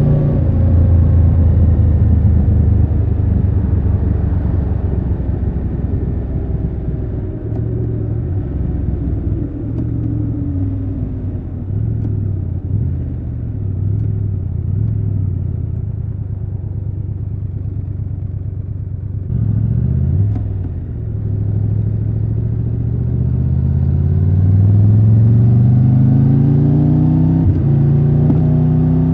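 Triumph Tiger 1200 Rally Pro's three-cylinder engine under way. The engine note falls as the bike slows over the first ten seconds or so and then runs low and steady. In the last several seconds it climbs steadily as the bike accelerates.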